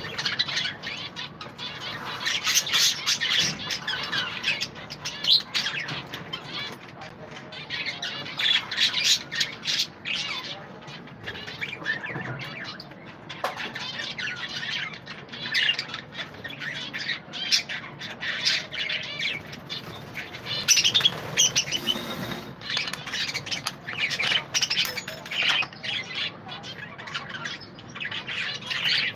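A flock of budgerigars chattering and chirping continuously, a busy mass of high, quick chirps that swells louder in waves every few seconds.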